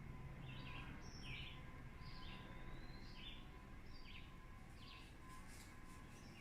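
Faint outdoor birdsong: a bird giving a string of short chirping notes, about two a second, over a low steady background rumble.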